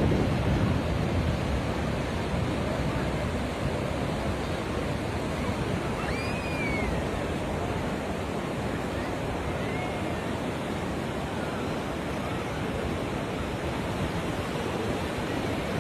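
Sea surf washing onto the beach, mixed with wind: a steady rushing noise, a little louder at the start. A faint high chirp sounds about six seconds in.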